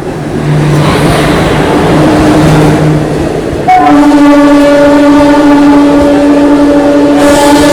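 Rushing, rumbling noise of a moving train heard at an open coach door. A little under four seconds in, a loud, steady blast of a train horn begins and keeps sounding.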